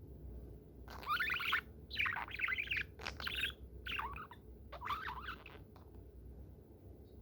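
Budgerigar chattering: about five short runs of rapid warbling chirps with brief gaps between them, starting about a second in and stopping about a second before the end.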